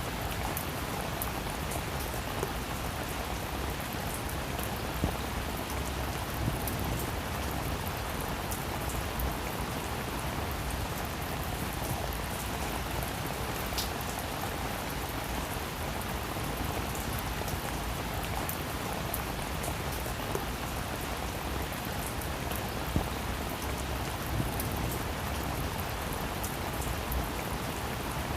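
Steady rain falling on a roof, a continuous hiss with individual drops ticking sharply here and there.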